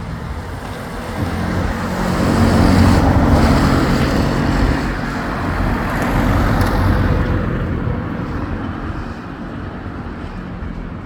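Road traffic: motor vehicles passing close by, engines and tyre noise. It swells to its loudest about three seconds in, again about six to seven seconds in, then eases off.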